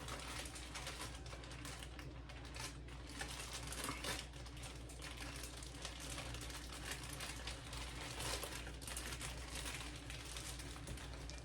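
Faint crinkling and rustling with scattered small clicks as food is handled and laid out, over a steady low hum.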